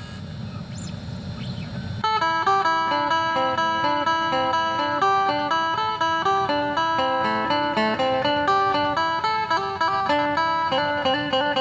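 Phin, the Isan plucked lute, playing a quick melody of short picked notes, coming in about two seconds in over a low rumble.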